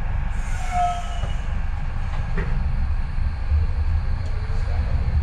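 Docklands Light Railway train running, a steady low rumble heard from inside the carriage. About half a second to a second in there is a brief high hiss with a few short tones.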